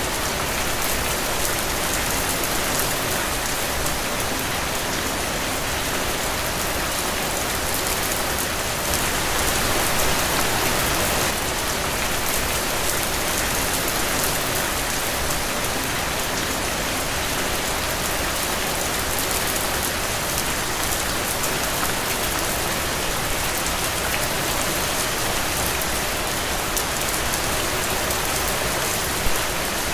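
Heavy rain falling steadily on open ground, a dense, even hiss that swells slightly about ten seconds in.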